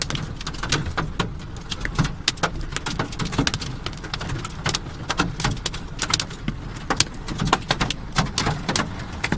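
Hailstones striking hard surfaces in a dense, irregular clatter of sharp hits, over a steady low rumble.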